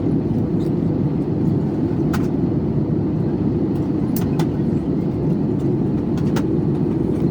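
Steady low roar of an airliner cabin in flight, engine and airflow noise, with a few faint clicks.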